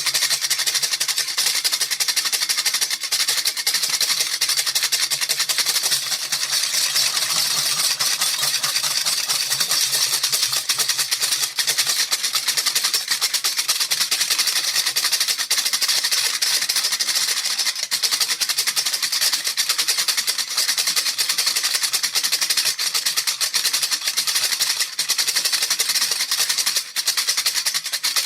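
A baby rattle shaken steadily without pause: a dense, even rattle.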